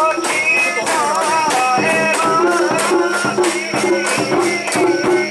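Festival crowd chanting as they carry a mikoshi, a Japanese portable shrine, over a steady rhythmic metallic rattling.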